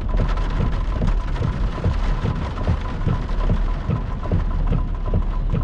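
Heavy rain and wind from a tornado-warned thunderstorm, a dense patter of many small hits over a low rumble. A faint steady tone sits above it.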